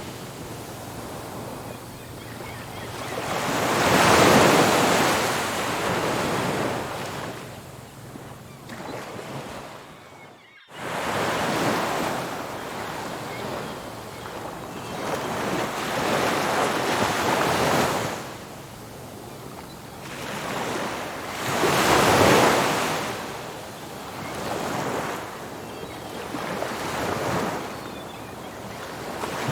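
Ocean surf: waves breaking and washing up a beach in slow swells, the biggest breakers coming about 4 seconds in and again about 22 seconds in. Near the middle the sound briefly drops almost to nothing and then resumes.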